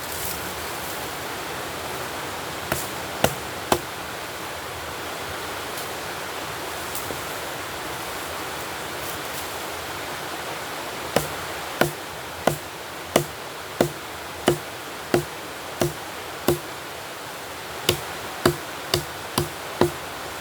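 Hard, regular knocks of a tool striking wood, as in chopping or batoning at camp: three blows a few seconds in, then a steady run of about one and a half blows a second, and a quicker run of five near the end. Under them is a steady rushing noise.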